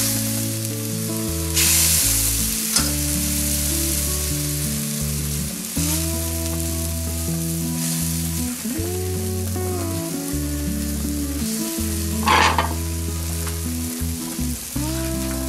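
Egg-battered fish fillets sizzling in hot oil and broth in a wok as they are laid in and stirred with a ladle, with a few brief louder bursts of sizzle and clatter. Background music with sustained low notes plays underneath.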